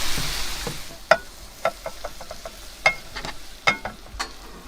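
Mutton pilaf frying in a pot and being stirred: a sizzle that fades in the first second, then a string of sharp clinks and scrapes as the utensil knocks against the pot.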